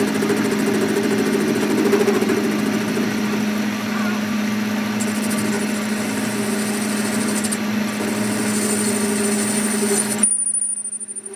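A workshop machine runs with a steady hum over a noisy rush, then stops suddenly shortly before the end.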